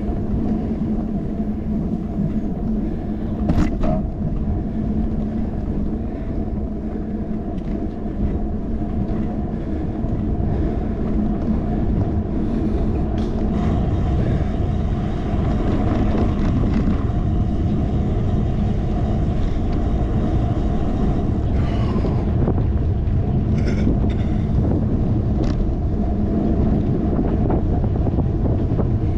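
Steady road rumble and wind noise of a bike ride, picked up through a handlebar-mounted camera, with a low hum running under it and a few short higher chirps or squeaks.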